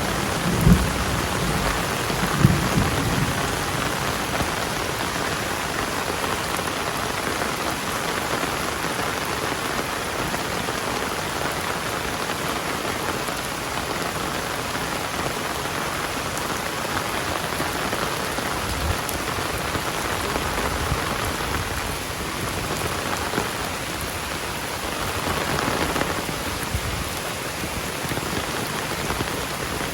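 Heavy rain falling steadily on surfaces in a dense, even hiss, with two brief low rumbles in the first three seconds.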